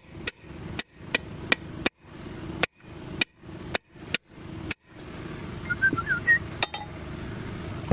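A hammer striking metal about ten times, roughly two blows a second, then stopping, followed by a single ringing clink a couple of seconds later. The blows are working the bead of a JCB loader's tyre loose from the rim during a puncture repair.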